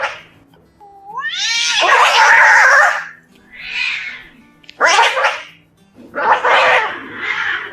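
Domestic cat meowing and yowling in about four drawn-out calls; the first and longest rises in pitch as it starts and turns harsh.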